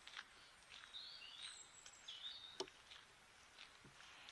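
Faint birdsong in woodland: a few short, high chirps and whistles from small birds, with a couple of soft knocks in the second half.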